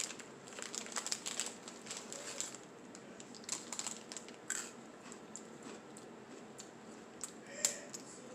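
Crinkly plastic snack wrapper being handled and opened, crackling in three short bouts.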